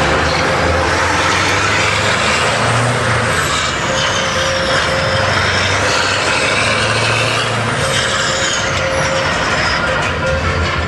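Scania V8 diesel truck engine running loudly, its note shifting up and down, with a high whine that rises and falls twice.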